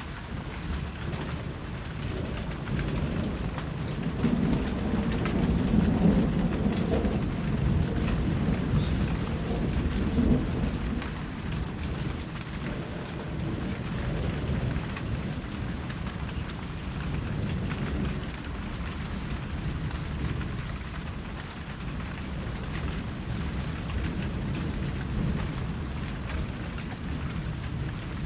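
Steady rain falling, with a low roll of thunder that builds a few seconds in and dies away before the halfway point.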